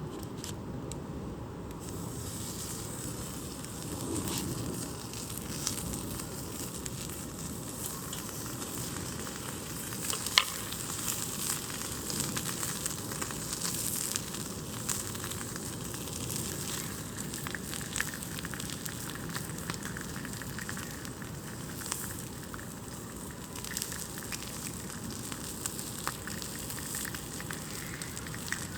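Campfire burning: a steady hiss with scattered crackles and pops, the sharpest pop about ten seconds in.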